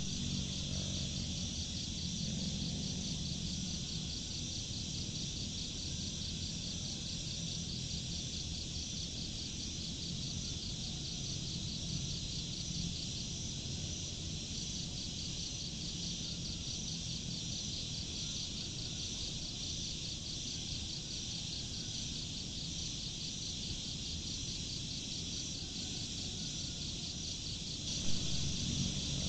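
A steady chorus of chirping insects, a fast even trill, over a low background rumble.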